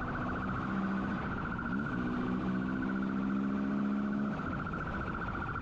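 Motorcycle engine running, rising in pitch about two seconds in and holding there, over a steady high pulsing tone.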